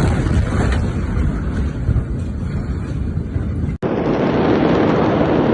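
Steady rumbling noise with wind buffeting on a phone microphone. About four seconds in it cuts off abruptly and gives way to a different, duller rushing noise.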